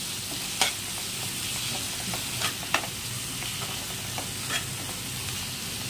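Onion-tomato masala sizzling in oil in a non-stick pan as a steel spoon stirs chopped coriander through it, with a few sharp scrapes of the spoon against the pan. The masala is fully cooked and the oil has separated at the sides.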